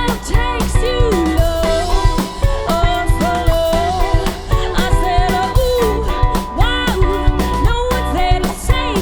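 Live rock band playing: a drum kit keeps a steady beat under bass and a wavering, bending melodic lead line.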